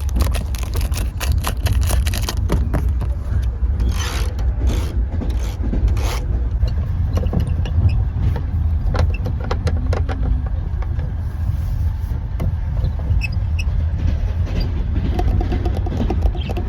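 Passenger train running, heard from inside the compartment as a steady low rumble, with scattered sharp taps and clicks of small objects being handled over it.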